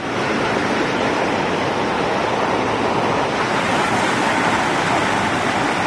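Fast-flowing floodwater from the overflowing Yamuna river rushing along a flooded road, a steady, even rushing noise.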